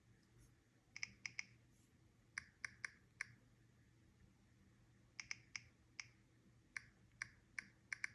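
Samsung Galaxy S25 Ultra's on-screen keyboard typing sound: short, light clicks in irregular runs of two to four taps, as keys are tapped.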